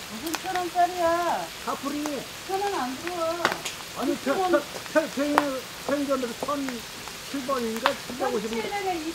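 People talking over the sizzle of pork frying on a large iron griddle, with sharp clicks every second or two.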